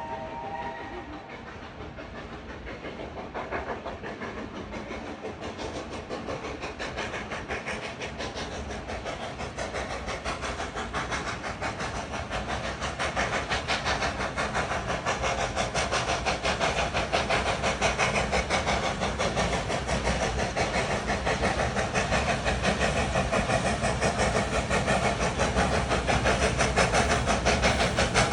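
Steam locomotive working hard up a steep gradient, its exhaust beating in a rapid, even rhythm over a hiss of steam and growing steadily louder as it approaches.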